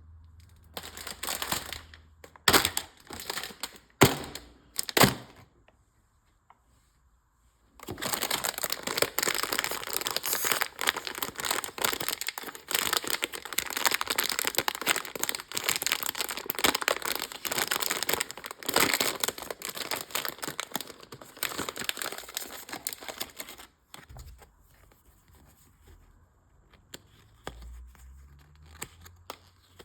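Toy packaging being crinkled and torn open by hand. There are a few sharp crinkles and rips, then about two seconds of silence, then dense, continuous crinkling and tearing for about sixteen seconds, dropping to faint handling near the end.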